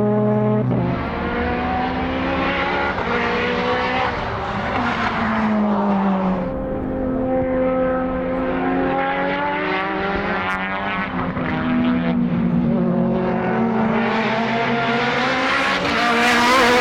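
Highly tuned time attack race car engine at full throttle on circuit, its pitch climbing and dropping as it revs through gears and brakes, loudest as it comes close near the end.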